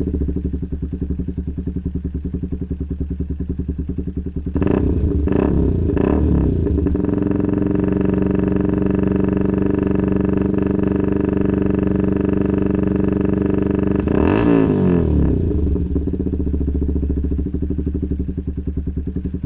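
Motorcycle engine breathing through an aftermarket CAT racing exhaust: idling with a pulsing beat, blipped three times about five seconds in, then held at steady raised revs for about seven seconds before the revs fall back to idle.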